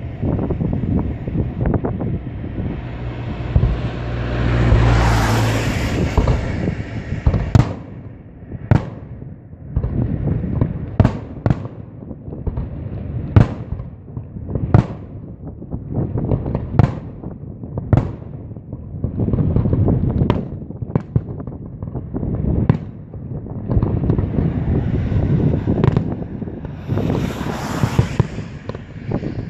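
Fireworks display: a continuous low rumble of shell bursts, with a long hiss about five seconds in. A run of sharp bangs follows, roughly one a second, and another hiss comes near the end.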